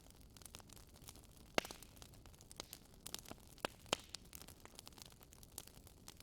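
Wood fire crackling faintly, with irregular sharp pops, the loudest about a second and a half in and several more a second or two later.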